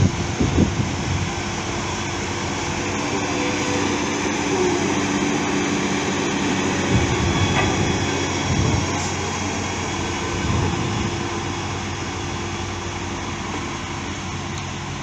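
Heavy diesel construction machinery running steadily, with a few brief low swells in the engine note.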